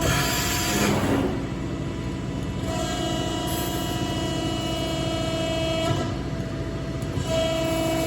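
Hydraulic CNC press brake cycling. A steady whine comes and goes in stretches of a few seconds as the ram strokes, with a rushing hiss in the first second. The owner says the cycling sounds like a little air in the system and may be a little dry.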